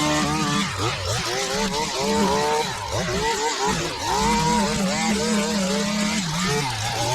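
Small petrol engine of lawn equipment running, its speed rising and falling repeatedly as the throttle is worked.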